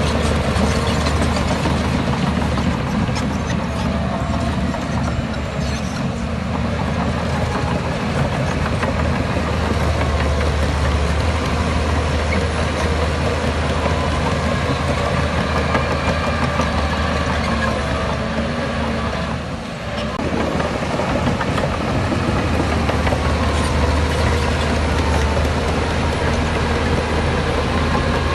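Heavy diesel earthmoving machinery running steadily: a bulldozer or dump-truck engine drone, with a brief dip about two-thirds of the way through.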